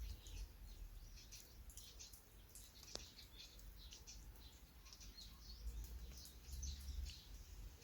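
Faint light rain: scattered high drips and ticks at irregular intervals, one sharper tick about three seconds in, over a low wind rumble on the microphone.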